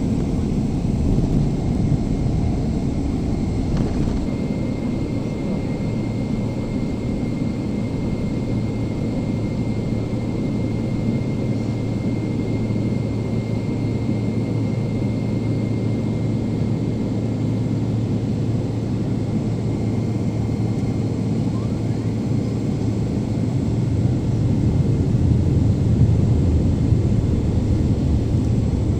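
Cabin noise of a Boeing 777-300ER with GE90-115B engines: a steady, dense roar of engines and airflow, with a faint steady high whine and a slight swell in loudness near the end.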